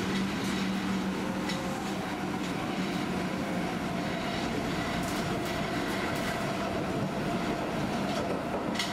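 Osaka Metro train running at speed, heard from inside the car: a steady rumble of wheels on rail. A low hum fades out about two seconds in, and there are a few faint clicks.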